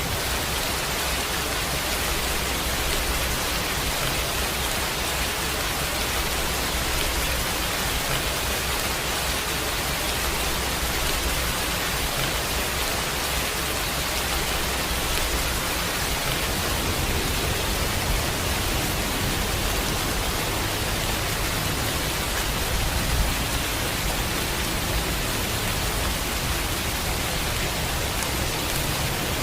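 Falling water, a steady, even rushing hiss that does not change.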